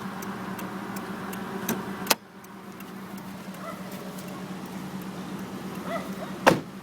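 Car hood being opened: a sharp click about two seconds in, after which a steady low hum drops away, and a loud knock near the end.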